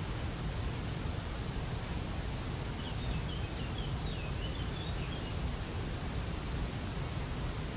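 Waterfall water rushing steadily, with a small bird giving a quick series of high chirps about three to five seconds in.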